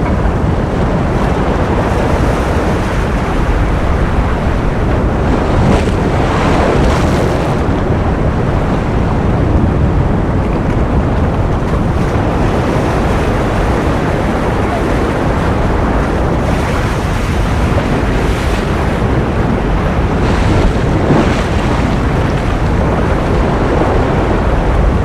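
Ocean surf: a dense, steady wash of noise with a heavy low rumble and a few brighter swells as waves break.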